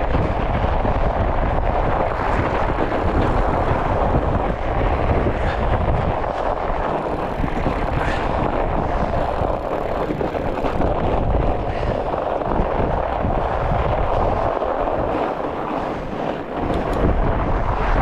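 Strong wind buffeting the microphone while a fat bike rolls across the snow-covered frozen lake: a steady, loud, rumbling rush with no clear pitch.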